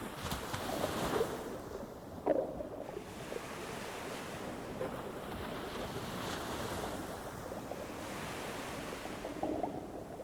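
Ocean surf on a beach: waves rushing in and washing back, swelling and ebbing, with a brief louder crash a little after two seconds in.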